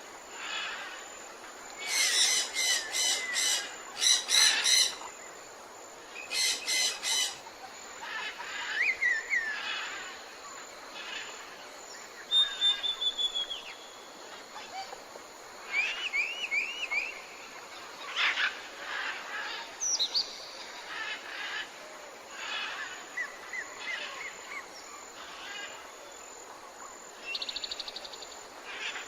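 Tropical forest birds calling and chirping: loud runs of rapid chirps in the first seven seconds, then scattered short whistles and calls, some rising and some falling, over a faint steady hiss.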